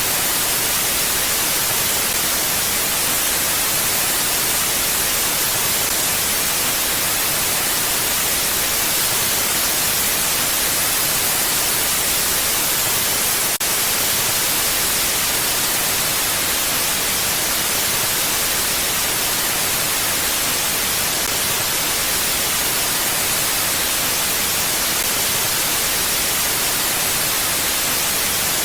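Mountain wind ambience: a steady, even hiss, brightest in the treble, that neither gusts nor dies away.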